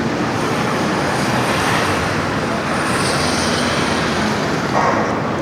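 Busy city street traffic: a steady rush of passing vehicles.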